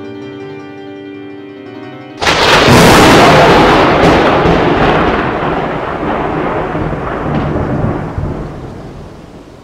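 A few sustained notes of music, then about two seconds in a sudden loud thunderclap that rumbles on and slowly fades.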